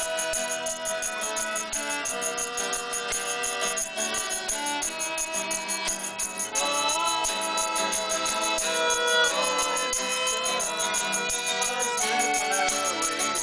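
Amateur acoustic jam: a shaker keeps a fast, even rhythm under several pitched instruments, among them a violin that slides between notes. The music gets louder about halfway through.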